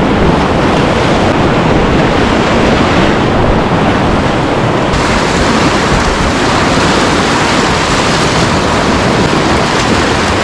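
Loud, steady rush of whitewater rapids, with an abrupt change in its hiss about five seconds in.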